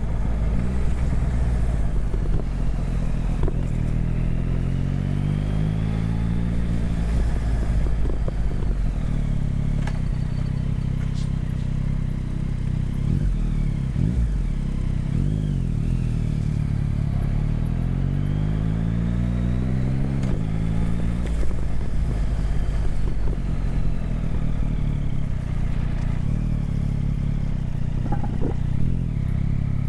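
Motorcycle engine heard from the bike while riding, running steadily with the revs rising and falling in two spells, around the first quarter and the middle.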